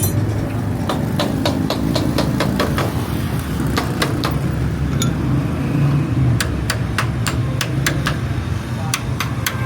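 Sharp, irregular metal-on-metal taps and knocks, like tool work on auto-rickshaw parts, over a steady low engine rumble. Near the end a few of the taps ring briefly.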